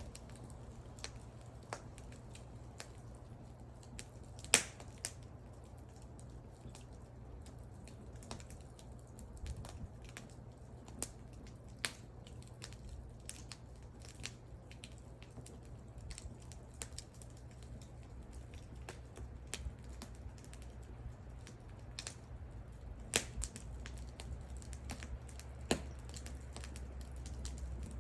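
Wood fire crackling: scattered sharp pops and snaps of burning wood over a low steady rumble, with one loud pop about four and a half seconds in.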